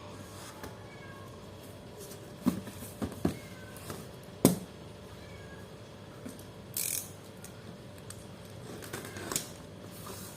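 Die-cast model car packaging being handled: a few sharp clicks and taps, the loudest about four and a half seconds in, and a brief rustle or slide near seven seconds.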